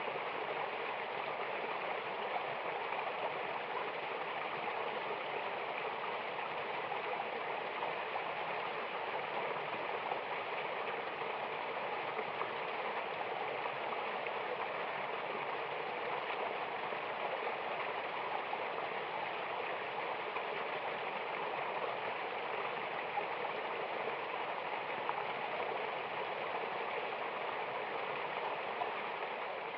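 Mountain waterfall: water rushing steadily in an unbroken, even hiss, with little deep rumble.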